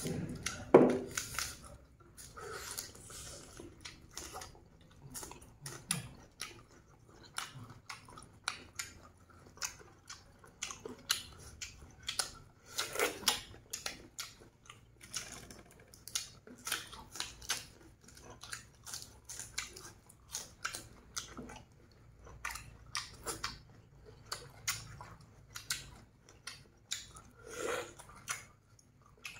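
Two people chewing and biting roasted duck: irregular short clicking and smacking eating noises, the loudest about a second in.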